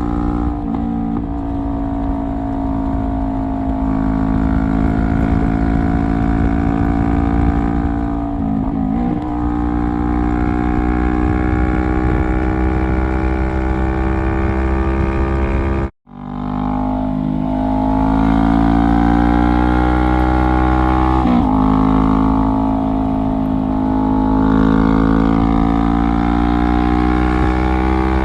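2017 Honda CBR500R's parallel-twin engine through a straight-pipe exhaust, heard onboard while riding at a fairly steady pitch. The note briefly dips and wavers about a second in, about nine seconds in and about twenty-one seconds in. Just past halfway it cuts out abruptly and swells back.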